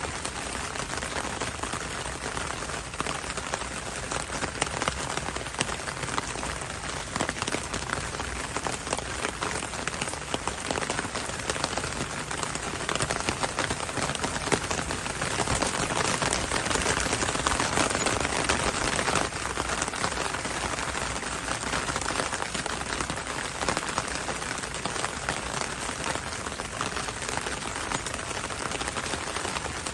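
Heavy rain falling steadily on surfaces, a dense patter of drops, growing a little louder for a few seconds midway.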